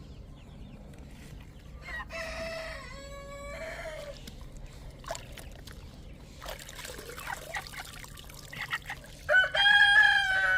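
Rooster crowing twice: a quieter drawn-out crow about two seconds in, and a loud crow near the end that holds its pitch and then drops off.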